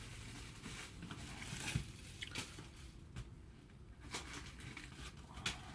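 Faint rustling of packaging with scattered light clicks and taps, five or so spread through, as boxed model train carriages are handled and unpacked.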